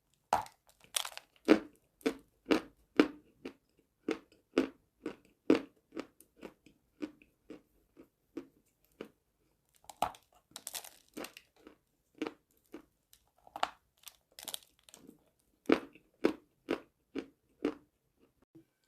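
A person chewing crunchy chalk close to the microphone: steady chews about two a second, with a few sharper, crackling bites.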